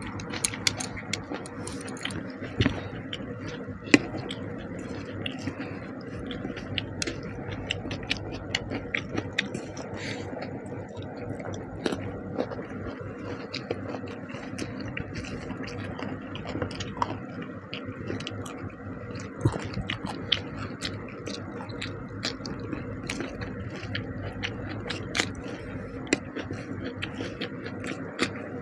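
Close-up eating sounds of fish curry and rice: wet chewing and mouth noises with frequent small clicks and scrapes, over a steady low hum.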